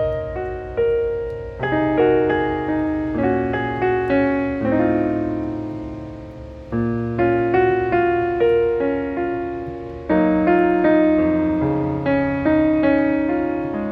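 Background piano music: slow, gentle chords, each struck and left to fade, with a steady low hum beneath.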